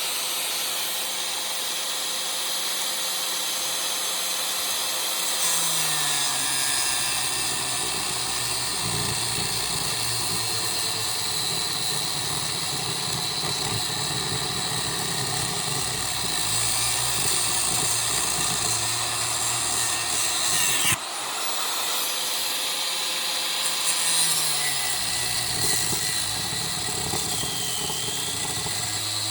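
Angle grinder with a cutting disc running at full speed and cutting through the metal of an air-conditioner unit. Its pitch drops and the sound turns rougher as the disc bites in. The grinder cuts out briefly about 21 seconds in, spins back up, and cuts again.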